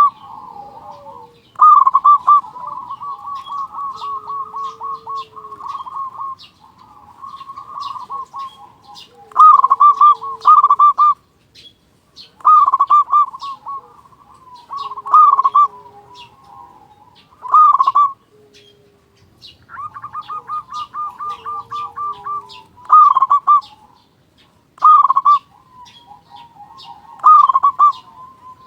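Zebra dove (perkutut) cooing: rolling, stuttering coo phrases ending in louder notes, repeated every few seconds, with faint high chirps of other birds behind.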